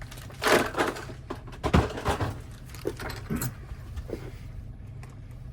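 Small metal lock parts being handled at a bench: scattered clicks and rattles, with two louder rustling, clattering bursts about half a second and two seconds in.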